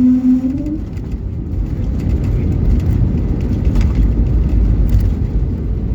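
Steady low rumble of an airliner after landing. A held tone fades out about a second in.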